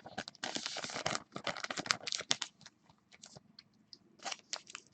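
Plastic crinkling and rustling, then a run of quick clicks and scratches as trading cards and their plastic sleeves or holders are handled at close range.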